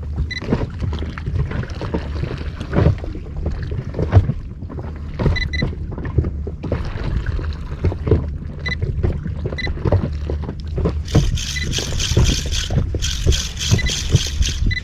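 Small inflatable boat rocking on the sea, water slapping and knocking against the hull, with wind buffeting the microphone. In the last few seconds a fast, even ticking starts, about five ticks a second.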